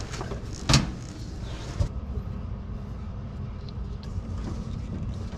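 Parts being handled during hand work on a car's fuel tank fittings: one sharp knock under a second in and a lighter click near two seconds, over a steady low rumble.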